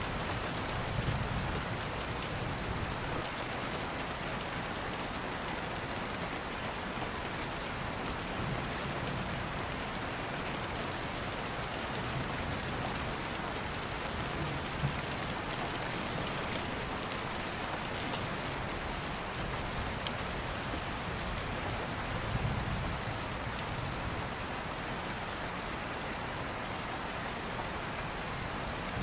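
Steady rain falling. A few soft low rumbles of distant thunder and scattered sharp crackles sound through it.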